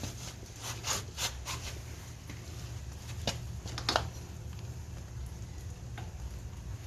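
Scattered light clicks and knocks of tools and parts being handled during hands-on work on an ATV, over a steady low hum. The loudest knocks come about a second in and again near four seconds.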